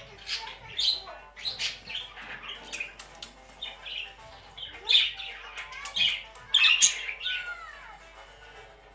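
A pet bird making a run of short, raspy cough sounds in uneven clusters, loudest about five and seven seconds in, with a falling whistle just after the last burst.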